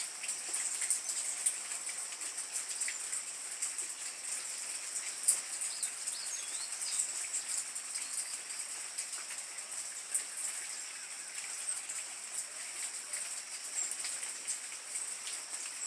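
A few faint, high, thin chirps from hummingbirds about five to seven seconds in, over a steady high hiss scattered with light ticks.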